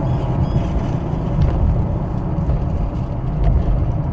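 Steady low rumble of a 2017 Ford Edge Titanium on the move, heard from inside the cabin: road and engine noise from its 3.5-litre V6.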